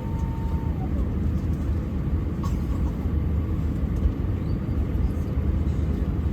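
Steady low cabin rumble inside a parked Airbus A320 before pushback, with a faint steady tone that stops under a second in and a few faint clicks.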